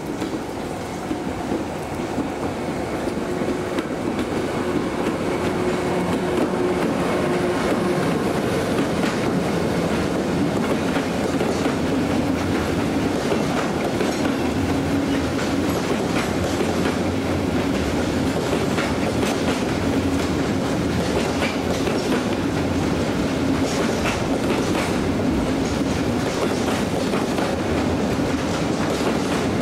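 Freight train of covered hopper wagons rolling past behind an electric locomotive: the rumble builds over the first few seconds as it nears, then holds steady with a hum and repeated clicks of wheels over rail joints.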